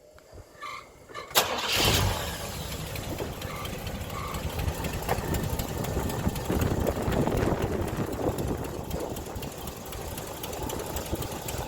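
1969 Buick Riviera's 430 cubic-inch V8 cold-started: after a few small clicks, the starter engages about a second and a half in and the engine catches almost at once, loudest as it fires, then settles into a steady idle.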